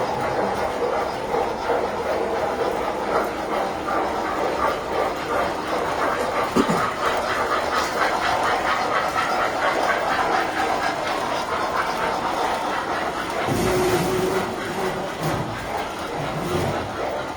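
Tinplate model trains running on a layout: small electric motors and gears whirring steadily, with wheels clicking over the track. About 13 seconds in, a short, steady low tone sounds over it.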